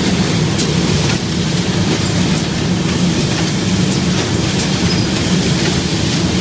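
Lamp-making production machinery running: a steady, loud hum with scattered clicks and a few short, high squeaks.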